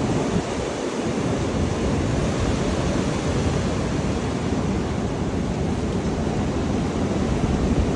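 Strong wind blowing hard and steadily, buffeting the microphone.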